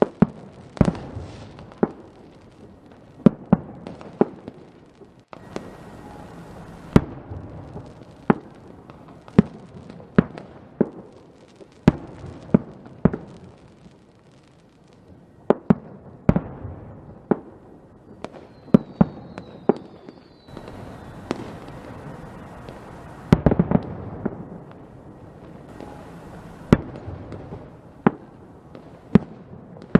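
Fireworks going off: a string of sharp bangs at irregular intervals, one to two a second, over a steady crackle, with a rapid flurry of bangs a little past the middle.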